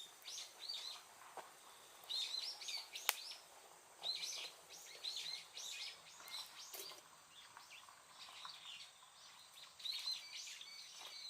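Small birds chirping, with short runs of quick high calls repeating throughout. A single sharp click about three seconds in.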